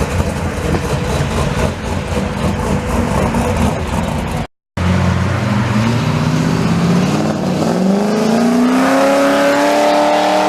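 Loud car engine rumbling at a low, uneven idle. Then, after a short break, an engine accelerating with its pitch climbing steadily for about five seconds.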